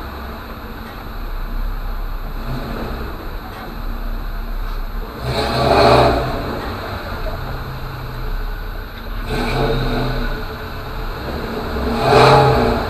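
Car engines in traffic, accelerating past. The sound swells loudest about six seconds in and again near the end, with a smaller swell in between.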